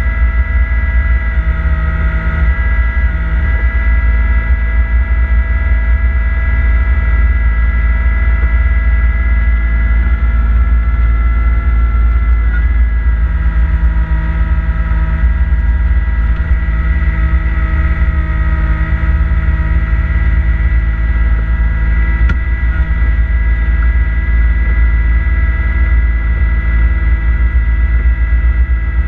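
Kubota B2650 compact tractor's three-cylinder diesel engine running steadily under load while driving a front-mount snowblower, a deep rumble with a steady high whine over it.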